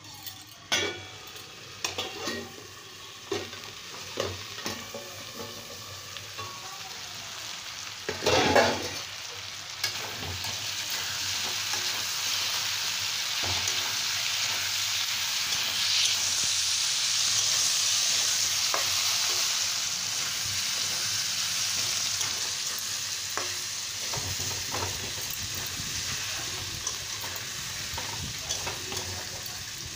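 Potato and drumstick pieces frying in oil in a kadhai. There are a few sharp metal clicks and knocks over the first several seconds and a loud clatter about eight seconds in. From about ten seconds a steady sizzle sets in, loudest in the middle, with stirring.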